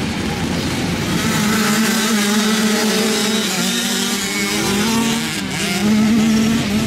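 Racing quad (ATV) engines revving on a dirt track, the engine note wavering up and down as they accelerate and back off.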